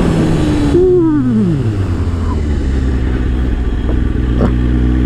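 Kawasaki ZX-10R's inline-four engine revs falling steeply about a second in as the bike slows, then running low and steady at low speed. Wind rush on the microphone fades as it slows.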